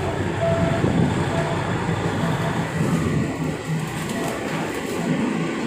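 Diesel commuter train running along the track, heard from inside the carriage: a steady rumble of engine and wheels.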